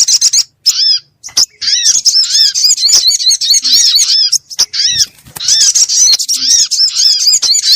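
Sogon (sogok ontong) bird lure call: loud, busy runs of quick arched chirps, about four or five a second, broken by brief pauses twice.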